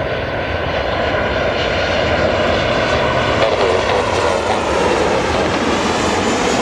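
Airliner engines running loud and steady, with faint whining tones drifting in pitch above the noise.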